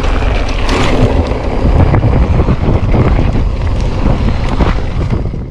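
Heavy wind buffeting on the microphone of a mountain bike rider's camera at speed, with scattered knocks and rattles from the bike over rough ground. It cuts off suddenly at the end.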